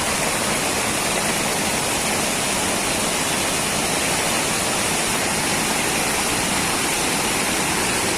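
Steady, unbroken rush of fast-flowing water, a rain-swollen torrent in spate.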